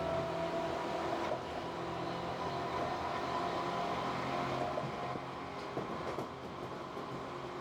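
Tobu 8000 series electric train running at speed, heard from inside the car: a steady hum of traction motors and wheels on rail, with a few faint clicks.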